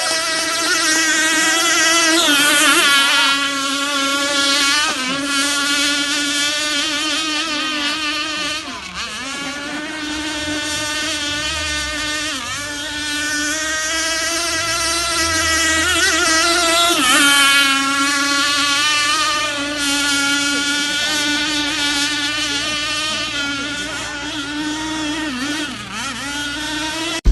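Racing RC powerboats' small two-stroke gasoline engines running flat out, a high, steady buzz whose pitch swings up and down as the boats pass and turn.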